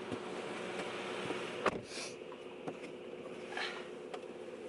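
Steady vehicle hum with a constant low tone, and a single sharp knock about a second and a half in.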